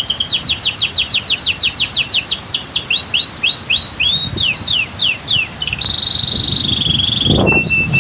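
Domestic canary singing: fast runs of quickly repeated sweeping notes, then a buzzy held trill about six seconds in and a steady lower note near the end. A low rumble comes in under the song in the last second.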